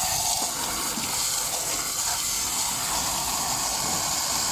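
A steady jet of water spraying onto the front suspension strut, rinsing packed dirt out of the spring cup and from between the spring coils. That dirt is what causes the suspension's creaking.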